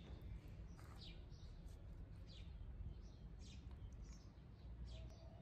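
Faint bird chirps: short, high calls that sweep downward, about one a second, over a low rumble of wind or handling noise.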